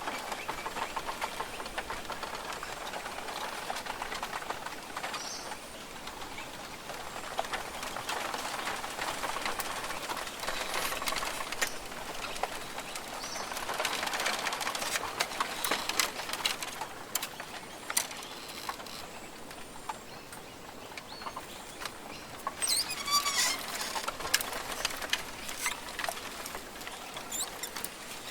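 Rainforest ambience: a continuous hissing, rustling background that swells and fades, with scattered birds calling now and then and a quick run of chirps about two-thirds of the way through.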